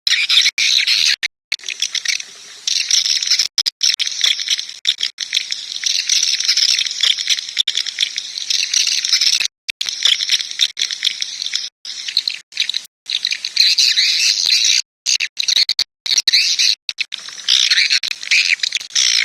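Swiftlet call recording: a dense, high chirping and twittering of swiftlets, the kind played to draw birds into a swiftlet house. It is broken by many sudden, brief dropouts to silence.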